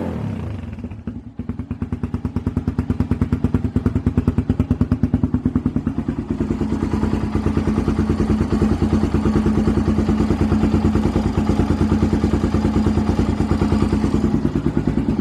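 Yamaha TT250R's single-cylinder four-stroke engine through a White Brothers aftermarket muffler, the revs falling away at the start and then idling steadily with an even beat of exhaust pulses.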